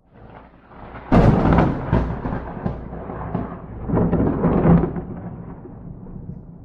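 Thunder: a sudden sharp crack about a second in that rolls on as a rumble, swells into a second loud peal around four seconds, then dies away.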